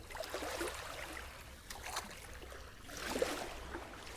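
Shallow seawater sloshing and splashing softly around the legs of a person wading in from the shore, in irregular swells.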